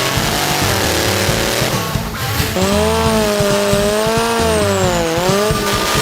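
V8-powered hot saw chainsaw's engine running at high revs, its pitch swinging up and down and dipping about five seconds in before climbing again.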